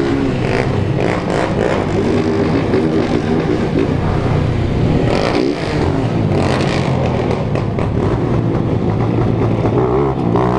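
Several small motorcycles riding together in a convoy, their engines running and revving, with pitches rising and falling and overlapping.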